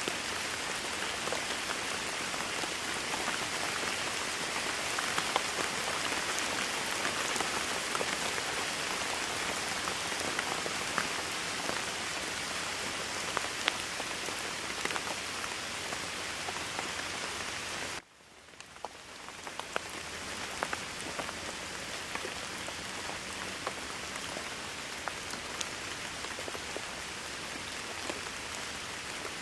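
Steady heavy rain, a dense hiss with individual drops ticking through it. About eighteen seconds in the sound drops out abruptly, then fades back up over a couple of seconds and carries on a little quieter.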